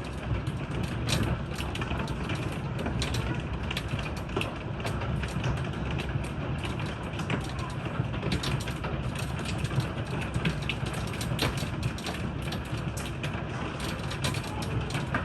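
Hail falling with heavy rain: a dense, irregular clatter of hailstones hitting hard surfaces over a steady hiss of rain.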